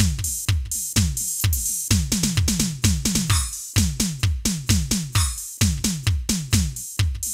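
Drum sounds from a Roland TD-8 electronic drum module: a steady run of kick and tom hits, each dropping in pitch, over a constant cymbal wash, with a couple of snare-like hits in the middle.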